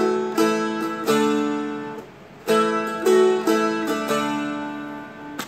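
Seagull Merlin M4, a four-string dulcimer-style instrument, strummed and picked through a short chord line with a little melody. A few strokes come at the start, there is a brief lull, then another run of strokes from about halfway, and the last chord rings out and fades.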